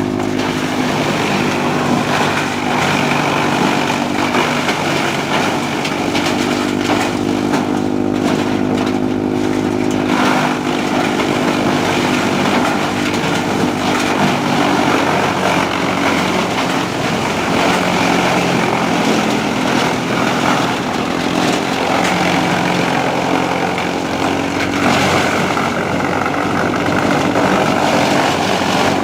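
Trakstar 545 DI tractor's diesel engine running steadily under load while driving a wood chipper, the chipper's grinding noise layered over the engine, with small shifts in engine speed.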